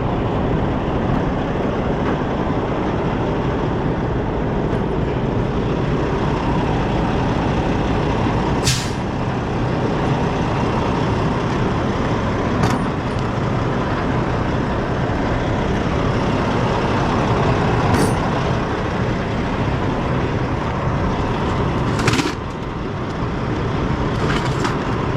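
Semi truck's diesel engine idling steadily, with a few short, sharp sounds spaced several seconds apart.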